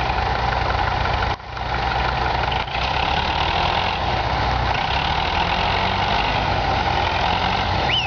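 Universal U-650 tractor's diesel engine running steadily at idle. The sound dips briefly twice, a little over a second in and again near three seconds.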